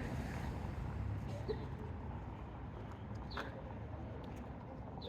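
Outdoor street ambience: a steady low rumble with a few short, high bird chirps, about one and a half and three and a half seconds in.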